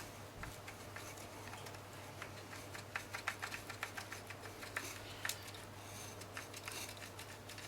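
Rapid, irregular small clicks and scratches of tightly rolled sandpaper being twisted and worked inside a plastic contact socket of a Dyson power head connector, cleaning the contacts; the clicking is densest in the middle.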